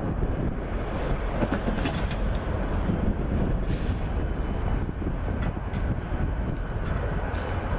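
A train rolling past: a steady low rumble of wheels on rail, with a few short sharp clicks.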